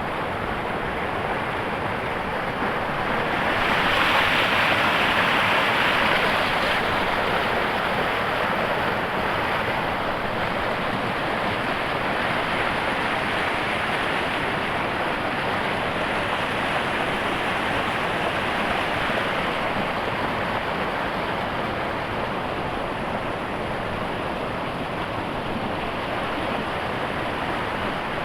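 River water falling and rushing over a waterfall: a steady, unbroken roar that swells slightly a few seconds in.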